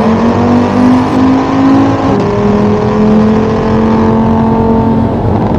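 Audi RS3 8P's tuned 2.5-litre TFSI inline five-cylinder pulling under acceleration, its pitch rising, then dropping with a dual-clutch upshift about two seconds in and climbing again. Turbo boost builds progressively on the car's low 1.5-bar boost setting.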